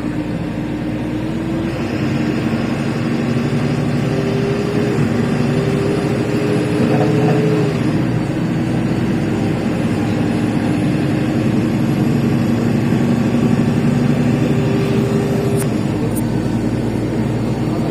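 LiAZ 5292.65 city bus with a Yuchai engine and Fastgear gearbox, heard from inside the cabin while under way. The engine note climbs over several seconds, drops back about 8 seconds in as a gear changes, and drops again near the end.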